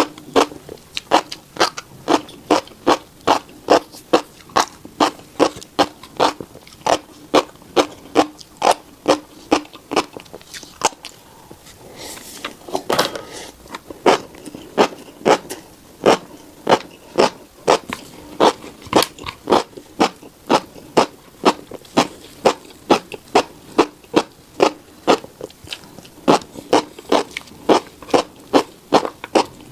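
Close-up chewing of a mouthful of tiny black seeds, each chew a sharp click in a steady rhythm of about two to three a second. The chewing breaks off briefly near the middle for a longer scraping rustle, then the same rhythm resumes.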